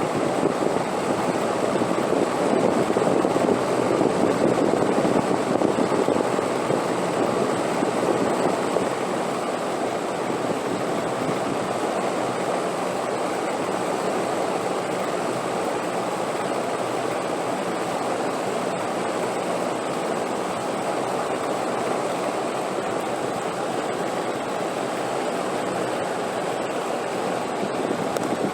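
Wind blowing in a steady rushing noise, swelling louder for several seconds near the start and then holding even.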